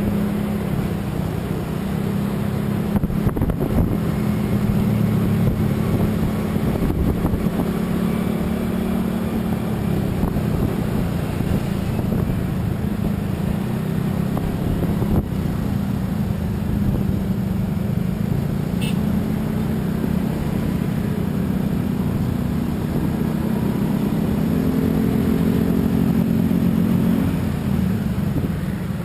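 A motor vehicle's engine running steadily at cruising speed, its hum drifting slightly up and down in pitch, over continuous road and wind noise.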